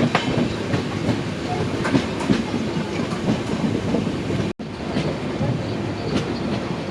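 Passenger train running along the track, its wheels clattering over rail joints in irregular clicks over a steady rumble, with a momentary drop-out of all sound about two-thirds of the way in.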